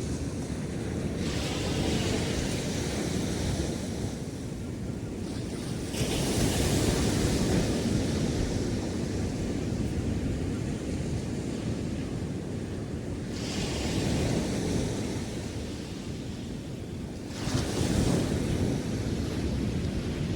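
Ocean surf on a sandy beach: waves break and wash up the sand four times, each surge a spreading hiss over a steady low rumble of the sea.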